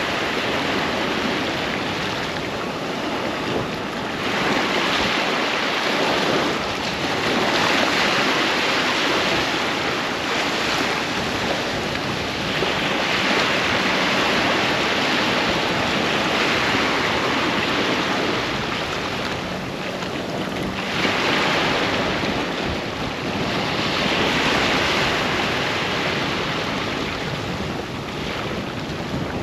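Ocean surf breaking and washing up on a sandy beach, a continuous hiss that swells and eases every few seconds as the waves come in.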